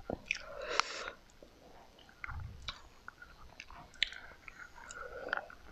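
A person chewing mouthfuls of chicken biryani and chicken close to the microphone, with scattered sharp mouth clicks.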